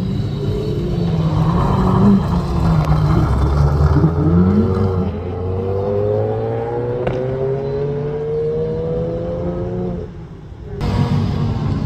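Rally car engine accelerating hard, its pitch climbing steadily for several seconds in one long pull. Near the end it drops away briefly, then comes back in.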